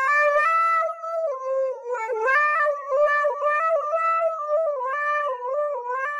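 Husky howling into a handheld karaoke microphone: one long howl that wavers and steps up and down in pitch.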